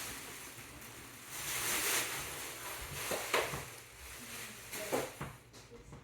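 Packaging being handled and rustled, with a couple of sharp light knocks.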